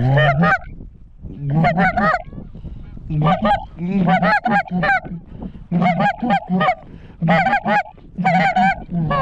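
Goose honks and clucks in quick runs about every second and a half, each run several sharp, rising and falling notes.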